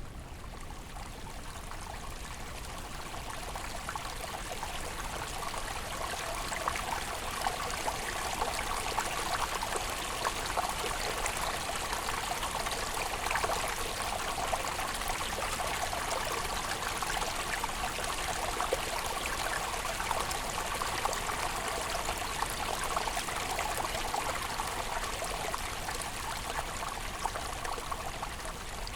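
Steady rushing noise of a brown noise relaxation track, even and water-like, swelling slightly over the first few seconds.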